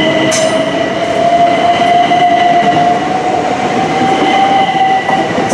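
Class 375 Electrostar electric multiple unit moving through the station, its traction equipment giving a steady whine that rises slowly in pitch over the rumble of wheels on rail, with one sharp click shortly after the start.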